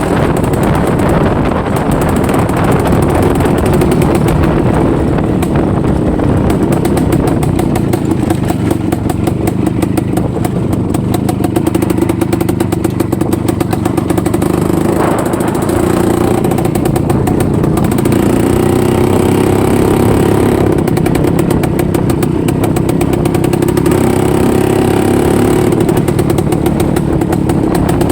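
IZh-49 motorcycle's single-cylinder two-stroke engine running under way, its pitch rising and falling a little with the throttle.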